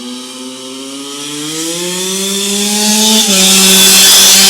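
Yamaha YZ85's 85cc two-stroke engine revving hard under full throttle, its pitch climbing and getting louder as the bike comes closer. About three seconds in the pitch drops suddenly, then the engine runs on at its loudest with a rushing hiss over it.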